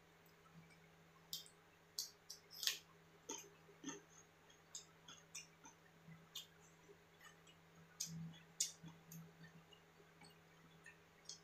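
Close-miked mouth sounds of someone chewing a mouthful of noodles: irregular wet clicks and lip smacks, busiest in the middle. A faint steady hum sits underneath.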